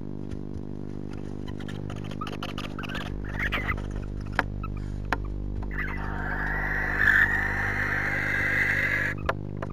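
Barn owl giving a harsh, drawn-out hissing call that starts about six seconds in and stops abruptly about three seconds later. Before it come scattered clicks and scratching from the birds shifting in the nest box, over a steady electrical hum.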